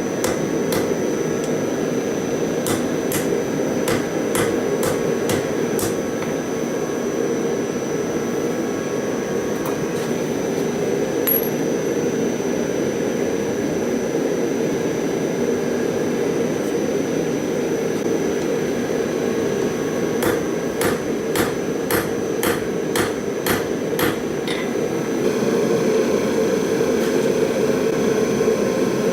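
Hammer blows ringing on steel at the anvil, in irregular runs of strikes, over the steady roar of a gas forge burner.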